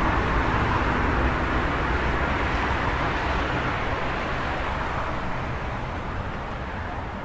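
Street traffic noise: a passing vehicle's sound slowly fading away over a low steady rumble.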